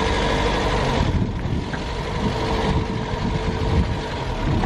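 Toyota Corolla's engine running under load as the car is driven over rough off-road ground, with irregular knocks and rattles from the body and suspension.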